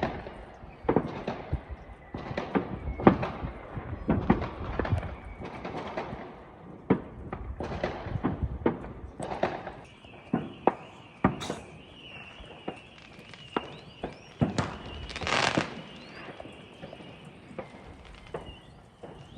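New Year fireworks and firecrackers going off: many sharp bangs, close together in the first half and more scattered after. A short hissing burst comes a little past the middle, and a thin high whistle runs from about halfway on.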